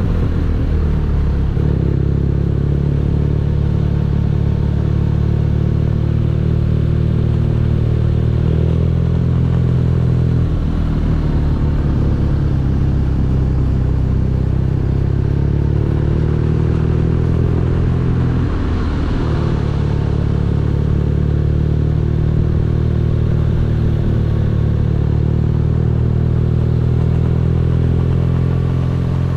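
BMW R nineT's air/oil-cooled boxer twin running steadily under way on the road. The engine note shifts briefly about a second in, about ten seconds in and about eighteen seconds in, as with gear changes.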